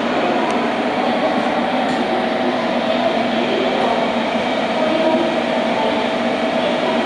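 JR Kyushu limited-express electric train at the platform, giving a steady running hum with a faint steady tone in it.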